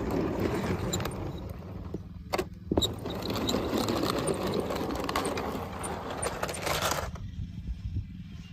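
Small plastic toy cars rattling and clattering together as they are handled, a busy rattle full of small clicks. It breaks off briefly about two and a half seconds in and stops about seven seconds in.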